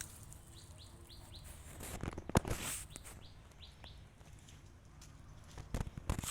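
A small bird chirping in two short runs of quick, falling chirps, about four at a time. A sharp knock comes about two and a half seconds in, and a cluster of thumps near the end.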